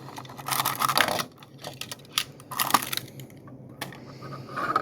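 A diecast toy car and its plastic packaging being handled: a rustle of plastic about half a second in, then a few separate sharp clicks.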